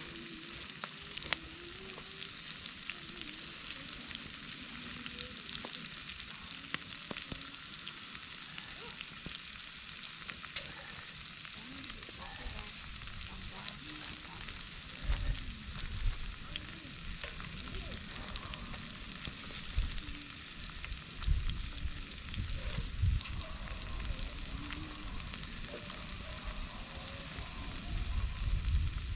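Peppers and steaks frying in oil in pans over a campfire: a steady sizzle with small crackles and pops. Low thuds and rumbles come in from about halfway through.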